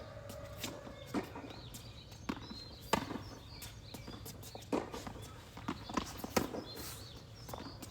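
Tennis balls being struck by rackets and bouncing on the court during a rally: a string of sharp knocks at irregular intervals, with the loudest about three seconds in and again about six and a half seconds in.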